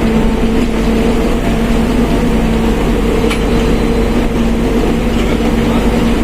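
Mercedes-Benz OF1721 BlueTec 5 bus driving at a steady pace, with a steady whine from its differential over the running noise.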